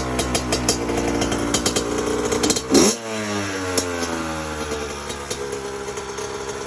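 Freshly rebuilt Honda CR80 two-stroke dirt bike engine running at a fast idle, with one short blip of the throttle about three seconds in, after which the engine pitch sinks back to a steady idle.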